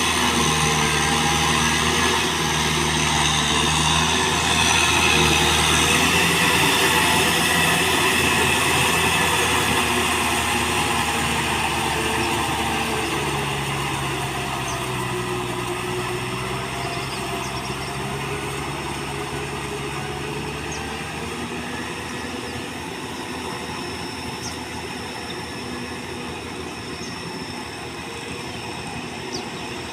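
Kubota tractor's diesel engine running steadily while pulling a plow, slowly growing fainter over the second half.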